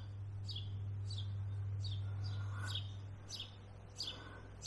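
Small songbirds chirping outdoors, a series of short high chirps that slide downward, repeating about every second. A low steady hum lies under them and fades after about three seconds.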